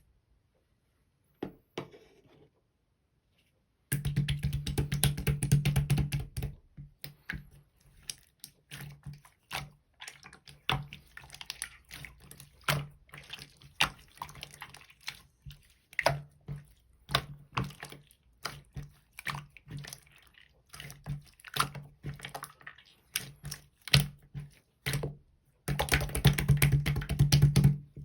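Sky-blue clear slime being squeezed and pressed by hand, giving wet clicks and crackling pops. The clicks start about four seconds in, come thickly for a couple of seconds, thin out to scattered pops, then turn dense again near the end.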